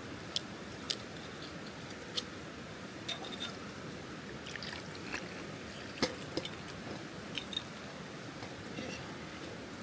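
Scattered light clicks and clinks, about a dozen spread irregularly, over a steady background hiss.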